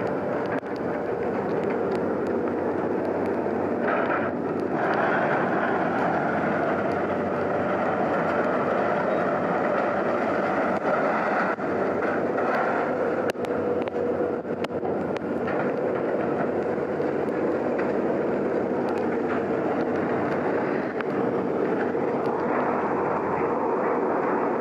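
Heavy machinery running steadily, a constant engine rumble with occasional faint clicks and knocks.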